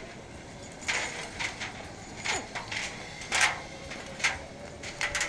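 Zipline gear being handled: a series of separate sharp metallic clicks and clinks, roughly one a second.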